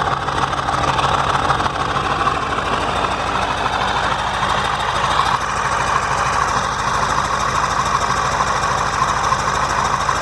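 KAMAZ 740.51-320 V8 turbodiesel engine idling steadily.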